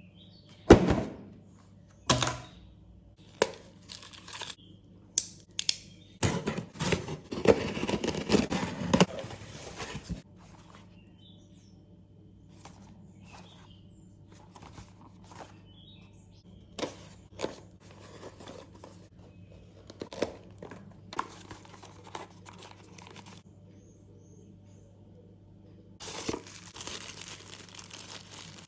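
Packaging of a set of LED head lamps being handled and opened: several sharp knocks and taps, then a few seconds of plastic crinkling and tearing, then quieter handling, with another spell of rustling near the end. A faint low hum runs underneath.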